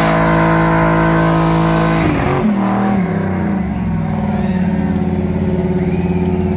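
Car engine running at high revs during a burnout, held steady, then dropping about two seconds in to a lower, steady rev.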